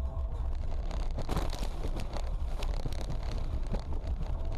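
Road noise inside a moving car: a steady low rumble from the engine and tyres, with scattered knocks and rattles in the middle of the stretch.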